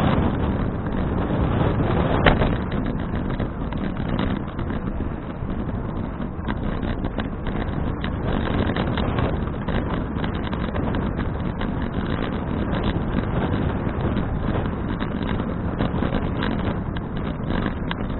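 Wind buffeting an action camera's microphone while cycling: a steady rushing noise, with a single sharp click about two seconds in.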